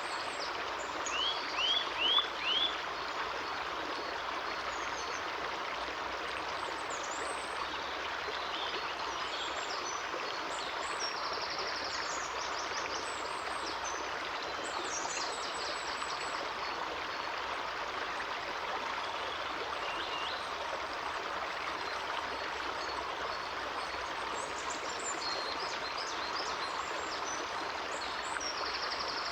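A stream running steadily, with small birds calling over it: four quick loud chirps about a second in, then scattered faint high notes.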